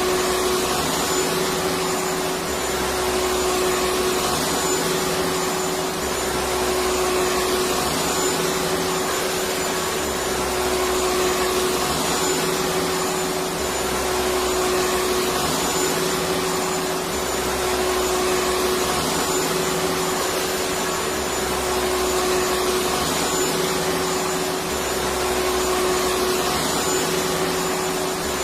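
Vacuum cleaner running steadily: a loud, even rush of air with a steady hum, and a low rumble that swells and eases about every three and a half seconds.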